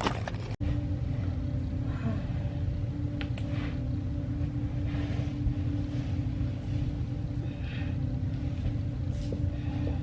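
A steady low rumble with a constant low hum, with a few faint soft rustles over it.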